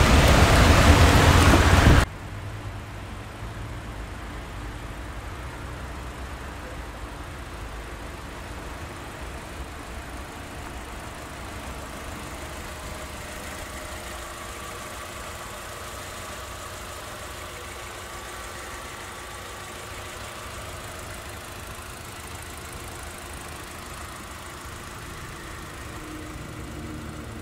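Loud rain noise that cuts off abruptly about two seconds in, then the Zotye T600's 1.5-litre turbocharged inline-four idling steadily, heard from the open engine bay.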